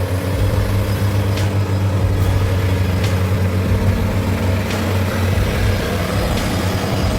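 Heavy diesel engines running steadily under load, a constant low hum with a few faint clicks over it.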